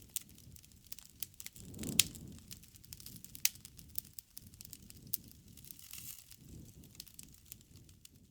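Campfire crackling: irregular sharp pops and snaps of burning wood over a low rumble of the flames, with one louder pop about two seconds in.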